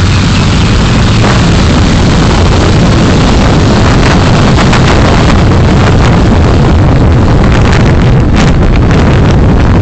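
Steady, very loud road and wind noise on a dashcam's microphone while driving, with a heavy low rumble. Short crackles of wind buffeting on the microphone come in about halfway through and grow thicker near the end.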